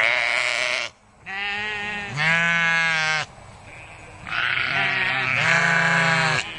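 Sheep bleating: a string of long, wavering bleats, about three or four calls, with short pauses between them.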